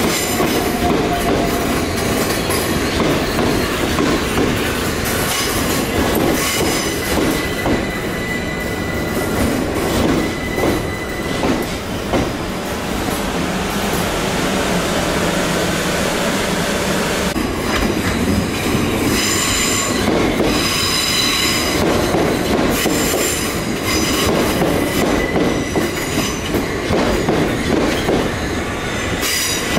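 Suburban electric multiple-unit train running through the station, its wheels clicking over rail joints and points, with high-pitched wheel squeal coming and going, strongest about two-thirds of the way in.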